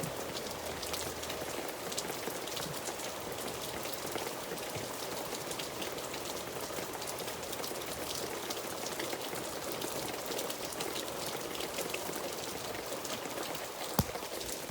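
Steady rain falling, with many individual drops ticking on a surface. There is a single sharp tap near the end.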